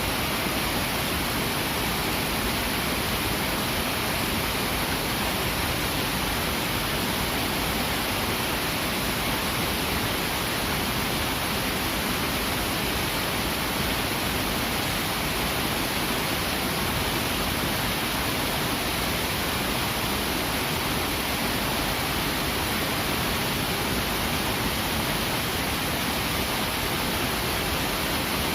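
A swift, clear river rushing: a steady, unbroken wash of flowing water with no changes.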